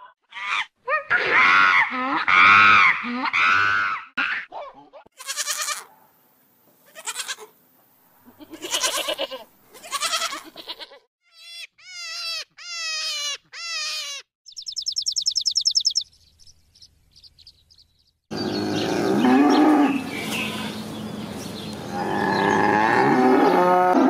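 Several different animal calls in short clips, one after another. First come drawn-out pitched cries, then a run of short falling chirps and a fast high trill. From the last quarter on there are longer pitched calls.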